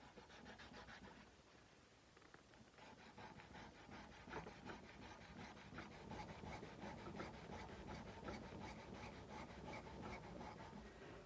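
Faint sandpaper rubbing on a kukri's steel blade in quick back-and-forth hand strokes, about five a second. The strokes stop briefly about a second in and then carry on steadily.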